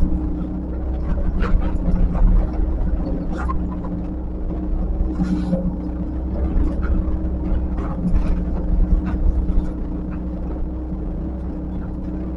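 Diesel engine of heavy earthmoving equipment running steadily, with several short knocks and scrapes from the machine at work.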